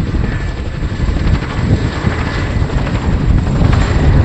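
RAF Boeing Chinook HC.6 tandem-rotor helicopter in flight, its rotor blades slapping in a rapid, continuous pulse over the engine noise.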